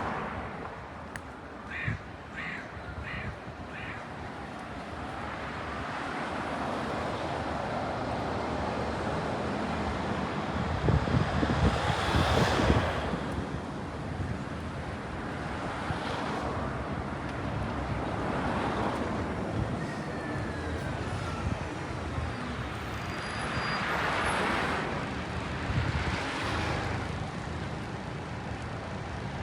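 Street traffic with cars passing, one louder pass about eleven seconds in and another near the end. Four short calls sound about two seconds in.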